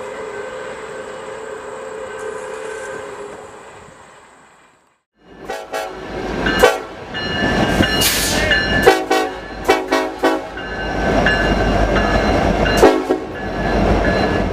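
A train's whistle held on one steady note, fading away about four seconds in. After a short break, the whistle sounds again loud and close as a chord of several notes, broken into several blasts, over the heavy low rumble of the moving train.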